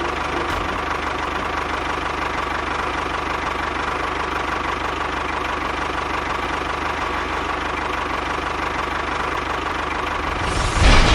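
A small motor running steadily with a fast, even pulse and a faint steady whine, getting briefly louder near the end.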